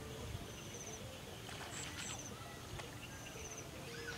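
Birds calling over a steady outdoor background: a short high call repeats every second or so, with a few brief chirps and some faint knocks in the middle.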